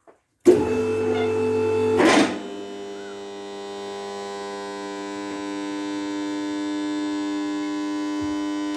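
A machine hum that starts suddenly about half a second in, shifts to a lower, quieter note about two seconds in, then runs steadily.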